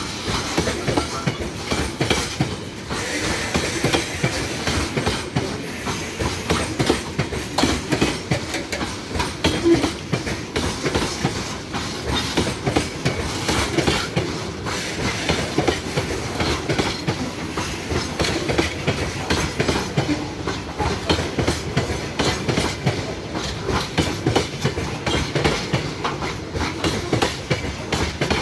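Train wagons rolling past, their wheels clacking over the rail joints in a steady, rapid rhythm that runs on without a break.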